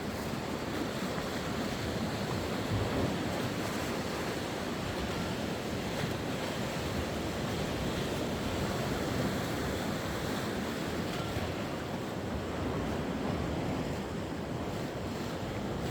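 Sea waves washing onto the shore, a steady surf wash that swells and eases.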